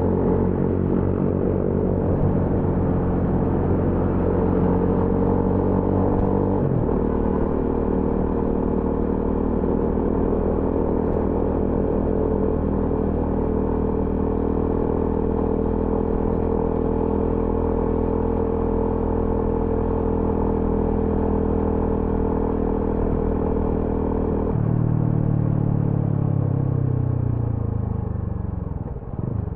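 TVS Apache RTR 200 4V's single-cylinder engine and exhaust running under way, with a gear change about seven seconds in. It then holds a steady note until near the end, when the engine pitch falls as the throttle closes and the bike slows.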